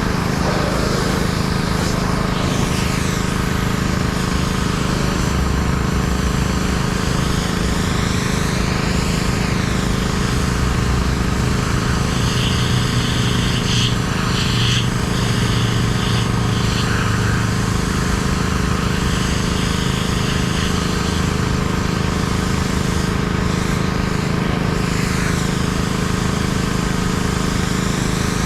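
Engine-driven pressure washer running steadily: a constant engine hum under the hiss of the high-pressure water spray, which grows brighter for a few seconds around the middle.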